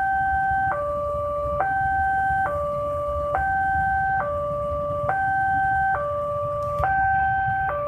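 Railway level-crossing warning alarm sounding its two-tone hi-lo signal, switching between a higher and a lower tone a little faster than once a second, which warns that a train is approaching. A steady low rumble of traffic runs beneath.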